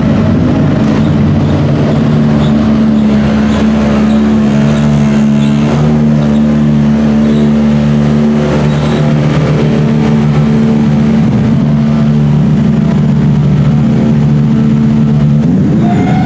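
Race car engine running loud at steady, held revs, its note hardly changing in pitch.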